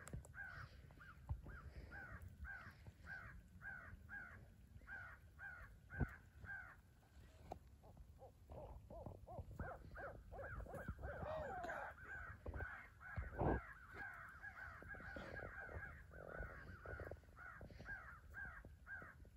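Crows cawing: first a regular run of caws at about two a second, then from about eight seconds in many caws overlapping as several crows call at once. Two dull thumps, the louder one about two-thirds of the way through.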